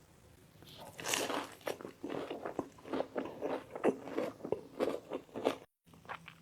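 Close-miked eating sounds: a person biting and chewing crunchy food, a rapid irregular series of crisp crunches, broken off by a brief dropout near the end.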